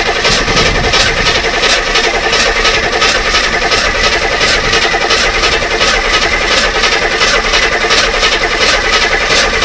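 A power drill spins the 350 small-block's oil pump through a priming shaft, a steady motor whine with regular rapid ticking. This is pre-lube priming before the first start: the pump is being run to fill the oil passages and build pressure.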